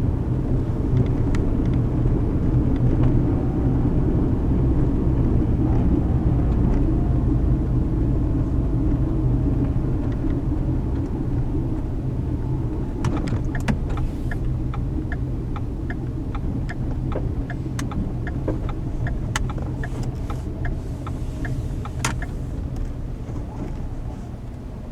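Car cabin noise on the move: a steady low engine and tyre rumble that eases off through the second half as the car slows, with scattered light clicks and ticks about halfway through.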